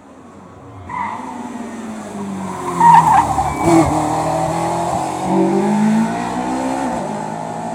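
Race car engine revving hard through repeated rises and drops in pitch as it changes gear, loudest about three seconds in, with tyres squealing.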